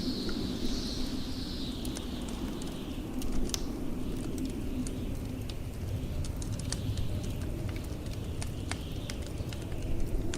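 Log fire crackling with scattered sharp pops, over the steady low rush of blizzard wind; a hissing gust swells at the start and dies away after a few seconds.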